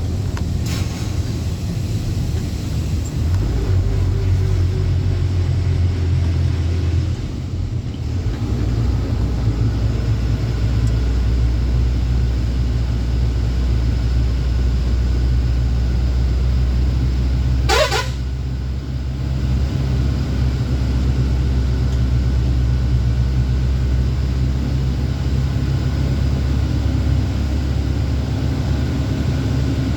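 Truck engine running steadily on the road, its low drone changing note about seven seconds in. About eighteen seconds in, a brief high tone rises quickly in pitch.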